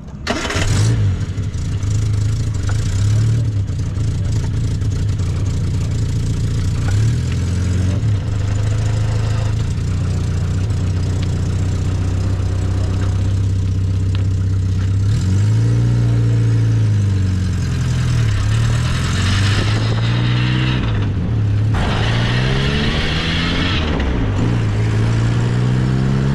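The 1275cc four-cylinder engine of an MG Midget running on the move, its pitch rising and falling several times as revs and gears change in the second half, with wind and road noise over it.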